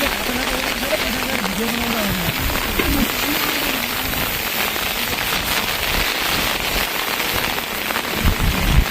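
Steady rain falling, a dense even hiss, with faint wavering voice-like tones in the first few seconds and a couple of low thumps near the end.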